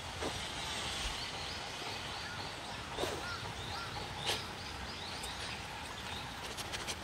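A bird calling a quick series of short high chirps, about three a second, over steady outdoor background noise, with a few soft knocks.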